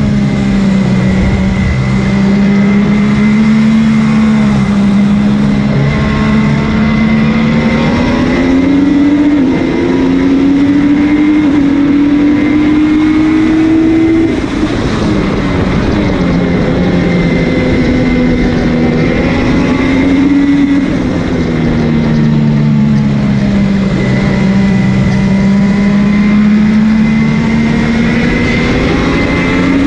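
MV Agusta F3 three-cylinder race engine running hard on track. Its note climbs steadily for several seconds, drops sharply about halfway through, then falls and rises again as the throttle and gears change, over a steady rush of wind noise.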